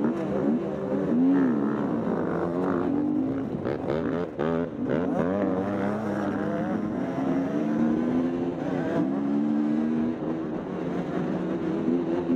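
Dirt bike engine revving hard, its pitch rising and falling again and again as the throttle is worked and the gears change, with a tangle of overlapping engine notes near the middle.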